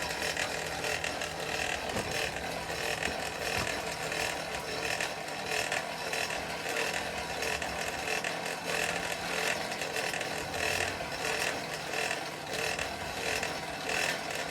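Forge blower pushing air through the fire pot while a chain link heats for a forge weld, a steady rushing noise that flickers quickly in level.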